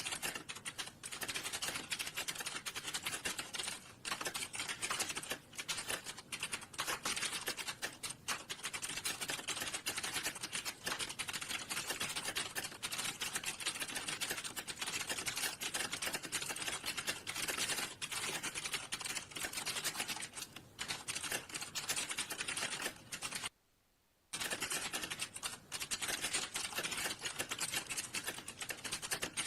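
Fast, continuous typing on a computer keyboard, keys clicking in quick succession, with one brief silent gap of under a second near the end.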